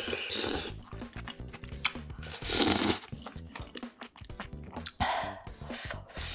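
Close-miked eating sounds: a spoonful of kimchi stew taken into the mouth and chewed, with wet, crunchy bursts coming every second or two. The loudest burst is about two and a half seconds in.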